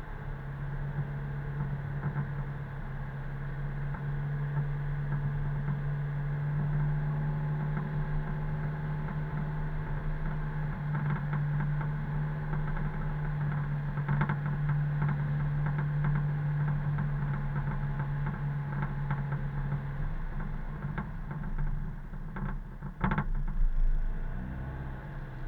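Car driving on a road: a steady low engine drone with tyre and road noise. The drone drops away about twenty seconds in, and a single sharp click follows a few seconds later.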